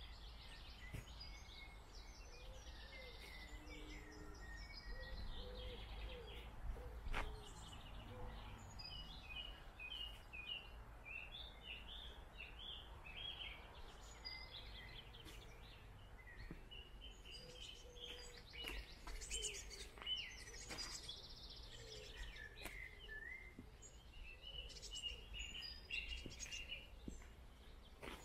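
Small birds chirping and singing, many short notes overlapping all the way through, over a steady low outdoor rumble, with an occasional sharp click.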